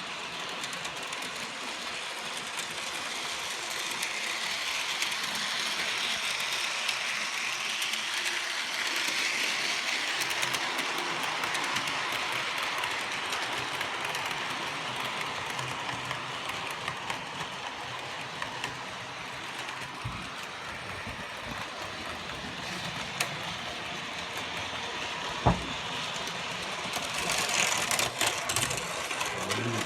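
Bachmann model locomotive running along the track: a steady whirr of its electric motor and gears with the wheels on the rails. There is one sharp click about 25 seconds in and louder clattering near the end.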